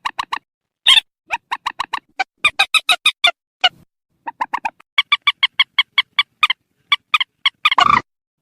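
Recorded calls of a purple swamphen: runs of short, harsh, clucking notes in quick succession, several groups separated by brief gaps, with a rougher, noisier call near the end. It is a lure recording meant for loudspeaker playback to draw swamphens into nets.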